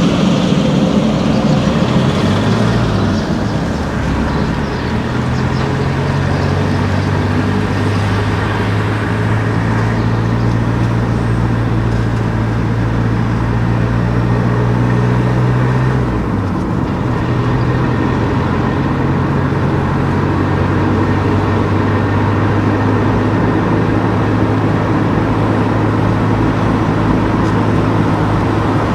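Car engine and road noise while driving. The engine hum climbs slowly and then drops abruptly about sixteen seconds in, as at a gear change or easing off, before running on steadily.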